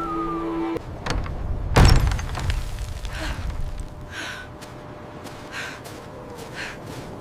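A heavy slam or thud about two seconds in, with a couple of lighter knocks around it, followed by softer short sounds about once a second.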